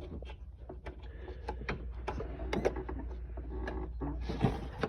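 Black plastic wiring-harness plug being worked back into a golf cart's engine computer (ECU) socket: a scattering of small clicks and knocks of plastic and handling, over a steady low hum.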